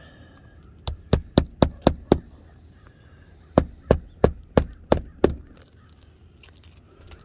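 Hammer driving a nail into roof shingles: two runs of six sharp strikes, about three a second, the first strike of the first run lighter, with a pause of about a second and a half between the runs.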